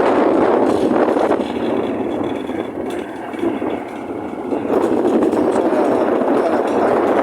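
Steady rush of wind and road noise from a motorcycle underway, wind buffeting the microphone; it eases a little for about a second and a half past the middle.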